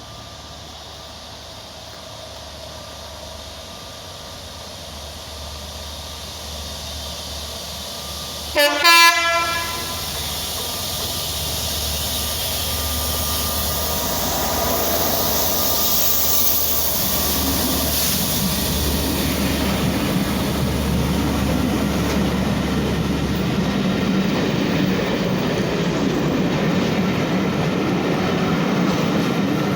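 DB Class 67 diesel locomotive hauling a Pullman train approaching and passing through at speed, with one short, loud horn blast about nine seconds in. After the horn the noise of the locomotive and the rolling coaches builds and stays loud.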